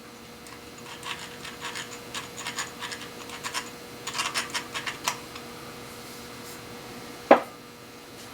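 Thread tap and tap wrench being handled and fitted against metal: a quick run of small clicks and scratches, then one sharp clack about seven seconds in, the loudest sound.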